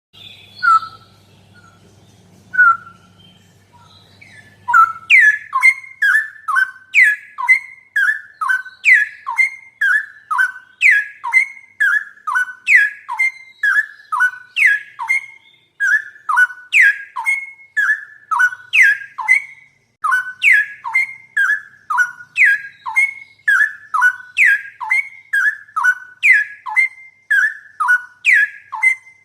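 Bird song: a short phrase of quick, falling whistled notes repeated over and over in an even rhythm, starting about five seconds in. Before that there are only a couple of single notes over a faint low hum.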